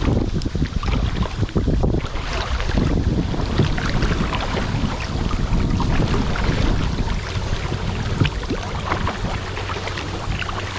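Fast river water rushing and splashing around a paddled boat, with heavy wind rumble on the microphone.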